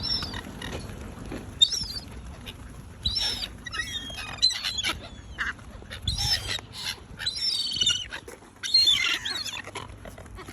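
Waterbirds calling again and again, a string of short high calls, some overlapping.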